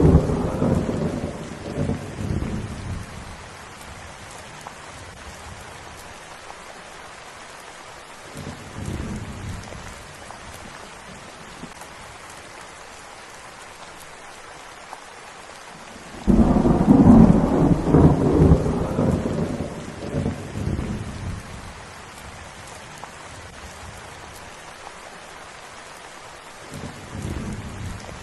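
Steady rain with rolling thunder. A rumble is dying away at the start, a fainter one follows, and about two-thirds of the way through a loud peal of thunder breaks in suddenly and rumbles on for several seconds before fading, with a last faint rumble near the end.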